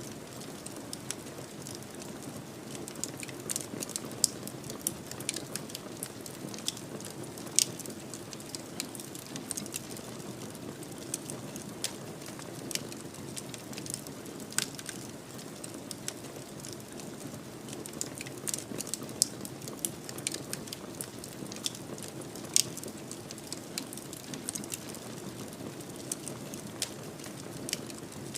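Wood fire burning in a fireplace: a steady low rush of flames with frequent irregular crackles and sharp pops, a few of them louder than the rest.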